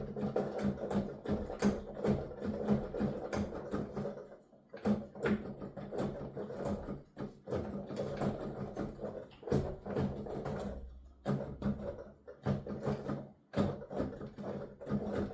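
Digital piano keys played with the sound going only to headphones: rapid clacking and thumping of the key action under the fingers. There is a brief gap about four and a half seconds in and another a little before the end.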